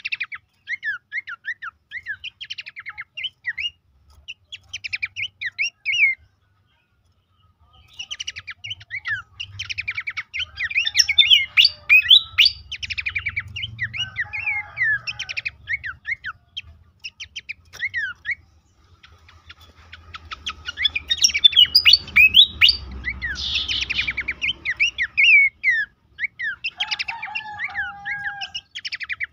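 Pelanduk semak babbler song: quick runs of sharp chirps and short whistled notes. It stops for about a second and a half around six seconds in, then comes back denser, with a faint low rumble underneath.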